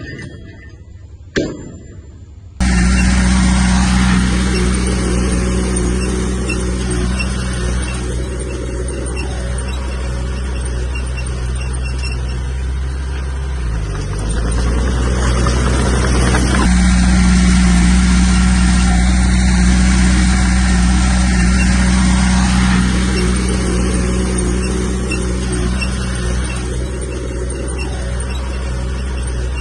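Heavy diesel earthmoving engine, most likely the Komatsu bulldozer's, running steadily under load. It starts abruptly about two and a half seconds in after a quieter stretch with two sharp clicks. Its pitch dips briefly and recovers about halfway through.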